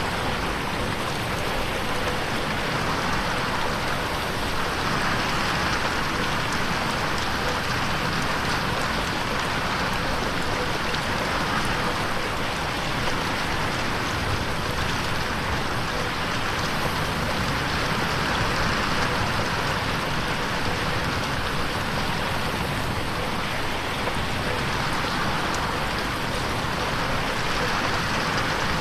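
Steady rain falling on a window pane, a dense even patter with no thunder.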